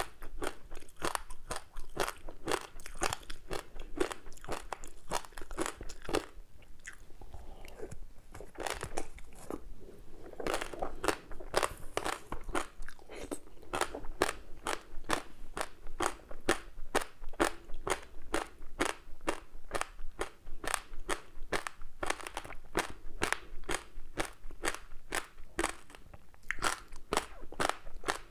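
Close-miked chewing of a crispy seaweed-wrapped rice snack: rapid, steady crunching with crackling, about three or four crunches a second, easing briefly about seven seconds in.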